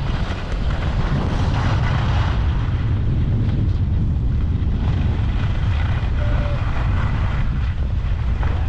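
Wind rumbling on the microphone over the steady hiss of skis sliding sideways across the snow of a race course.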